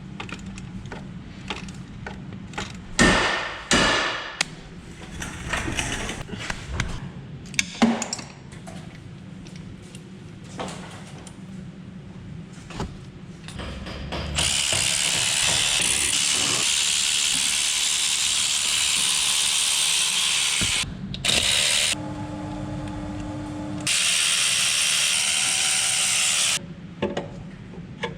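Metal tools clinking and knocking against engine parts. For about the second half a power tool runs in long, steady bursts, with a short, lower pitched whine of its motor between them.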